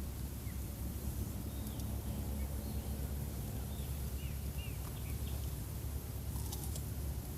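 Outdoor ambience with a few short bird chirps over a steady low rumble, and a couple of sharp clicks near the end.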